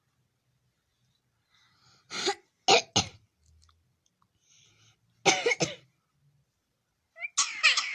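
Talking bird making cough-like sounds: a short cough about 2 s in, two near 3 s and two more about 5.5 s in, then a quick run of rough chattering calls near the end.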